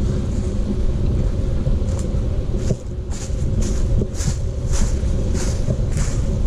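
Wind buffeting the microphone in a steady low rumble. From about two seconds in come footsteps crunching on the trail at a walking pace, about one and a half steps a second.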